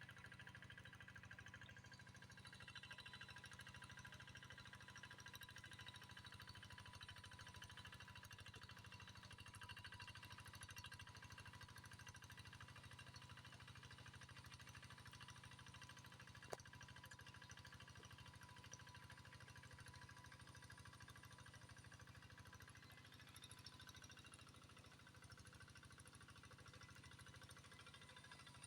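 Near silence: a faint, steady background hiss with a low hum, and one short click a little past halfway.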